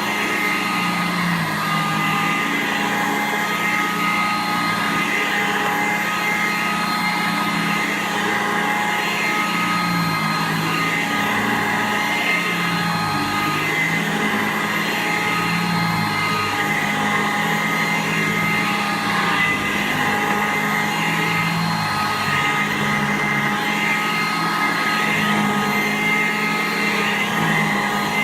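Sanitaire SC887 upright vacuum cleaner running steadily over carpet that has been carpet-cleaned, with a steady high whine over a lower hum that wavers in pitch.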